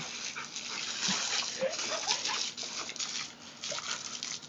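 Chocolate Labrador puppy giving a few short rising whines, about one and a half to two seconds in, over the steady hiss and splash of garden hose spray.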